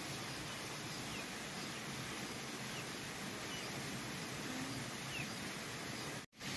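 Steady outdoor background hiss with a few faint, short chirps, typical of small birds or insects. The sound cuts out abruptly for a moment near the end.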